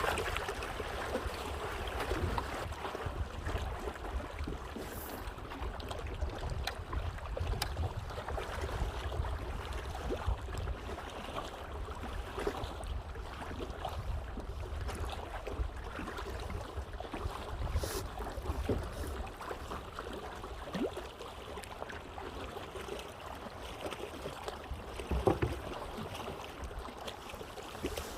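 Water sounds from a kayak being paddled on a lake: paddle splashes and water lapping at the hull, over a low wind rumble on the microphone.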